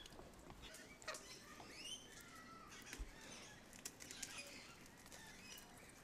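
Birds chirping faintly: short calls and quick up-and-down pitch glides, with scattered light clicks.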